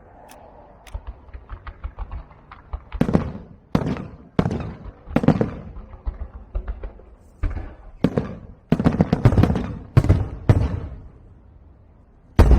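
Fireworks going off: a quick run of small sharp cracks in the first few seconds, then a string of heavy bangs, each trailing off in a rumble, with one more sharp bang near the end.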